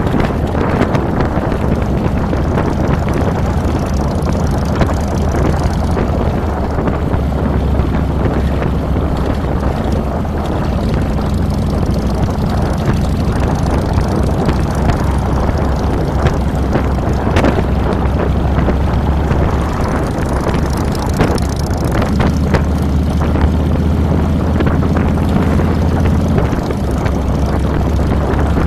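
Harley-Davidson Fat Boy's Twin Cam 96 V-twin running steadily while riding, its note dipping and picking back up a few times as the speed changes, with wind rushing over the handlebar-mounted microphone.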